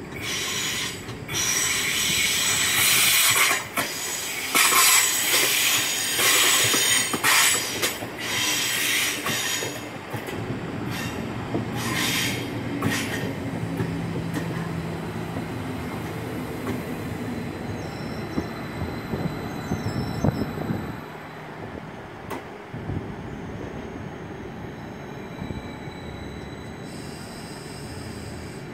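BLS double-deck electric multiple unit passing slowly on curved track, its wheels squealing loudly in repeated high-pitched bursts for the first dozen seconds. The squeal then gives way to a steadier low running hum with a couple of held tones, which dies down over the last several seconds.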